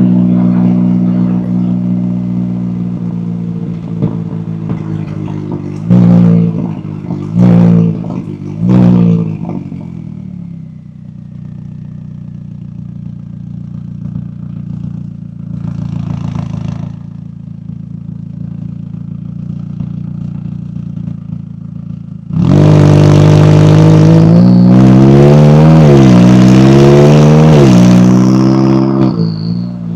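McLaren 570S's twin-turbo V8 exhaust: three short throttle blips about six to nine seconds in, then quieter steady running. From about 22 seconds the car accelerates hard and loudly, revs rising and dropping back through gear changes until near the end.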